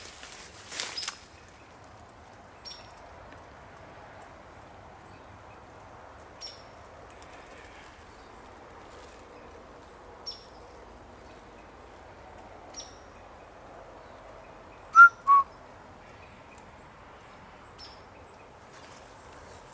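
Birds calling: short, high chirps every few seconds, with two louder, lower calls in quick succession about fifteen seconds in.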